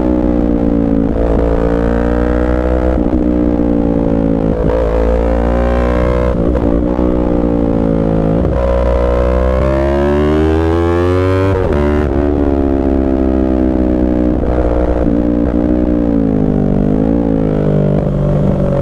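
Yamaha R3's parallel-twin engine running hard, its pitch repeatedly rising and falling with short breaks every second or two.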